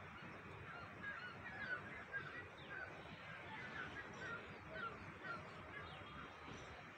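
Birds calling outdoors: a run of short, wavering calls repeated a few times a second, over a steady background hiss, fading out about five and a half seconds in.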